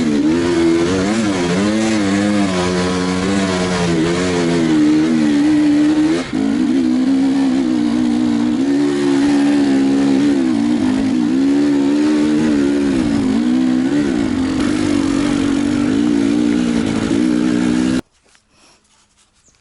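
Enduro motorcycle engine revving up and down as it is ridden over rough ground, its pitch rising and falling with the throttle. The sound cuts off abruptly near the end.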